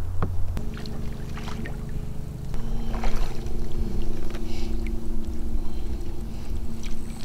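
Kayak pedal drive being worked in reverse against strong current: a steady low hum and rumble whose pitch steps up about half a second in and shifts again near the three-second mark, with short splashes of water against the hull.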